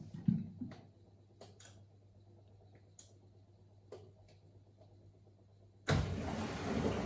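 Miele WS 5508 washing machine in its wool programme: a quiet pause with a steady low hum and a few clicks and a thump, then about six seconds in the drum motor starts and the drum begins turning.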